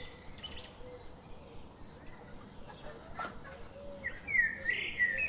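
Bird calls: a few short, wavering chirps near the end over a quiet background, with one faint click in the middle.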